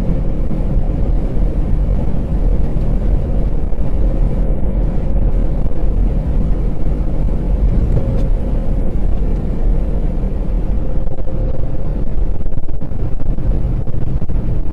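Steady low rumble of a vehicle on the move, engine and road noise with a faint steady hum running through it.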